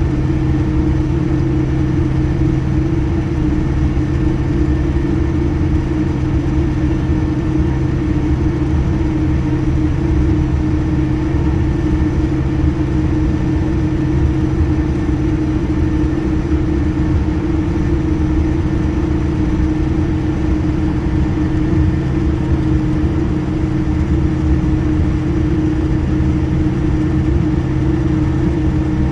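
Airplane engines running steadily: a loud, even low rumble with several steady humming tones that neither rise nor fall.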